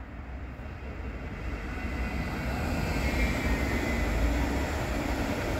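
Regional electric multiple-unit train passing close by: rumble and wheel-on-rail noise that grows louder over the first couple of seconds and then holds, with a faint high whine on top.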